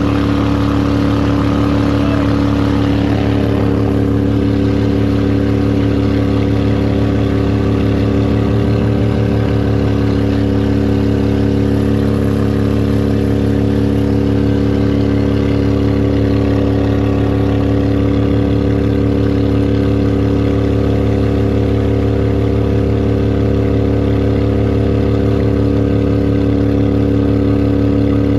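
A boat's petrol motor running steadily at constant throttle while under way.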